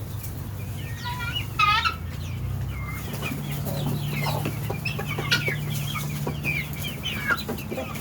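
A flock of poultry, guinea fowl and chickens, calling and clucking, with many short calls overlapping. A louder call stands out about one and a half seconds in, over a steady low hum.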